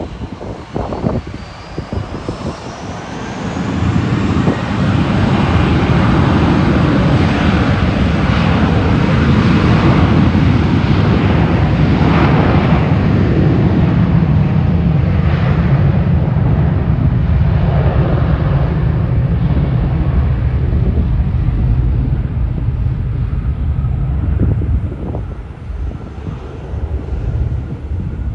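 Jet airliner flying past, with a thin rising whine in the first few seconds. Its low engine rumble then builds, is loudest midway and fades near the end.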